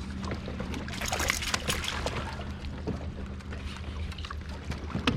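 Water splashing and trickling around a kayak, irregular and noisy, over a steady low hum.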